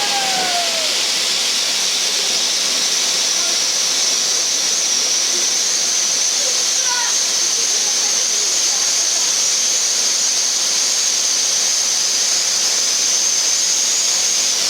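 Firework fountain spraying sparks: a loud, steady hiss with a high, slightly wavering whistle-like edge.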